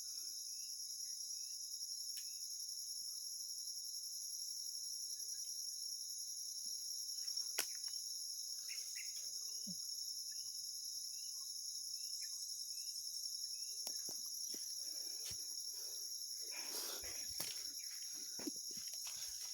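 Steady, high-pitched insect chorus droning on two pitches. Faint short rising chirps repeat about once a second, and there are a few clicks and rustling in the last few seconds.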